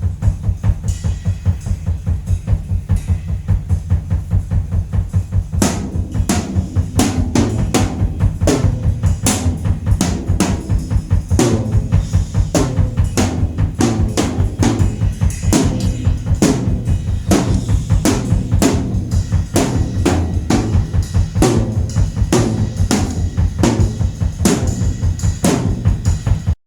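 A drum kit played in a steady, fast rhythm: rapid, even bass-drum beats throughout, joined about five seconds in by sharp snare-like hits. The playing cuts off suddenly near the end.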